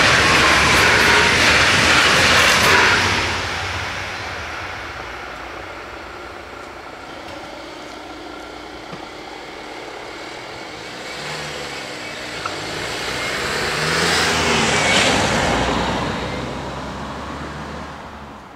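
Electric passenger train running past over the crossing and moving away in the first three seconds, its whine falling in pitch. After a quieter stretch, a van drives over the crossing, growing louder to a peak a few seconds before the end and then fading.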